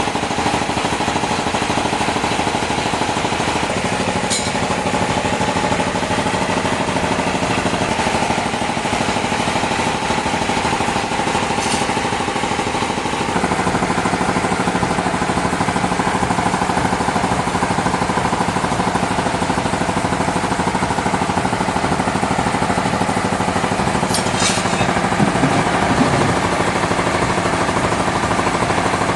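Sawmill machinery running continuously: a dense rapid rattle under a steady hum that shifts pitch a few times, with a few faint clicks.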